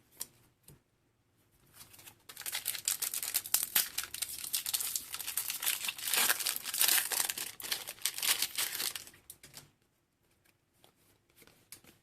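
Foil wrapper of a Pokémon TCG booster pack crinkling and tearing as it is opened, a dense crackle lasting about seven seconds, followed by a few faint ticks near the end.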